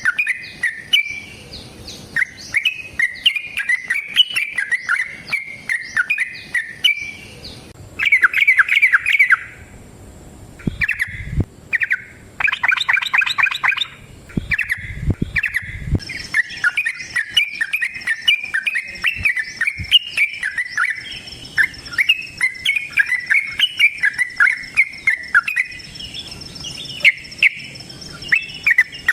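Yellow-vented bulbul (trucukan) singing long runs of rapid chattering notes, with a couple of short breaks part way through. A few low thumps come about eleven and fifteen seconds in.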